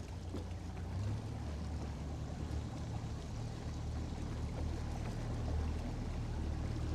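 Outboard motor on a small boat running steadily underway: a low, even drone with a hiss of water and wind over it.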